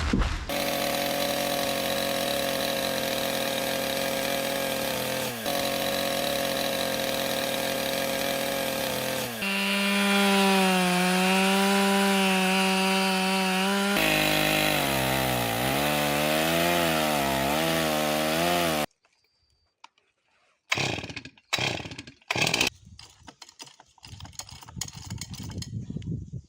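Chainsaw running at steady high speed, then settling to a lower pitch and rising and falling as it cuts. It cuts off abruptly, and after a short silence come irregular sharp cracks and knocks.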